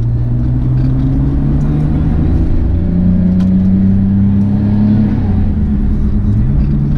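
Ford Escort's engine heard from inside the cabin as the car gets under way. Its drone rises gradually in pitch, dips about five seconds in, then climbs again near the end.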